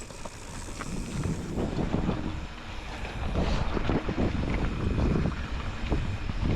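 Wind buffeting the microphone while moving downhill, a gusty rumble that grows louder over the first couple of seconds and then stays loud.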